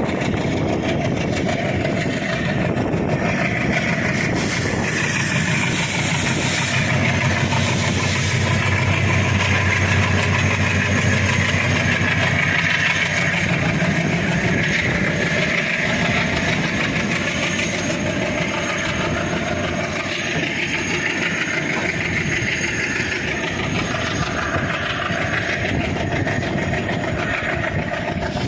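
Goods train rolling past with a continuous rumble and the clatter of wagon wheels on the rails. A low drone is strongest in the first half.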